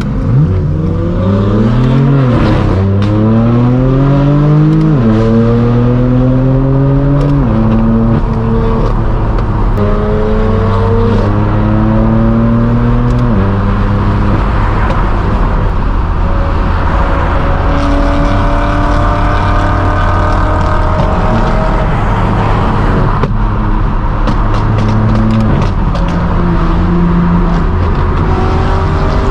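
Straight-piped BMW M4 F82's twin-turbo inline-six with an AWE track exhaust, accelerating hard through three quick upshifts, its pitch climbing and dropping back at each shift, then running at steadier revs with a few more shifts. A cluster of exhaust crackles and pops sounds late on.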